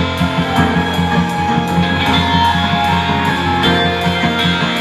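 Guitar-led instrumental introduction to a rock song, steady rhythmic strumming, before the vocals come in.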